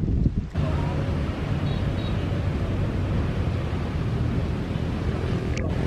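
Jet airliner engines running steadily, a continuous rushing noise over a low hum, with a brief click near the end.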